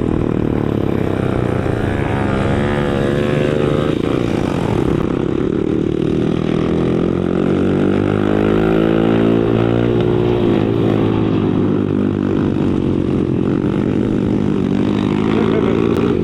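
Small single-cylinder four-stroke pit bike engines running hard, their pitch rising and falling as the riders work the throttle, with more than one engine note at once.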